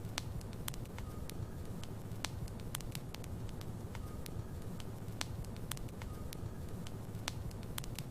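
Logs burning in a fireplace: a steady low rumble of the flames with frequent sharp crackles and pops from the wood, about two or three a second, and a faint brief whistle now and then.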